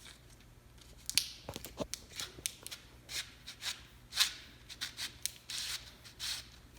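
Irregular light clicks and short scrapes, a few a second, from hand tools and metal hardware being handled.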